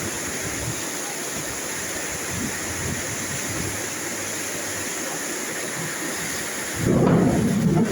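Steady rain hiss. Near the end a louder low rumble lasts about a second.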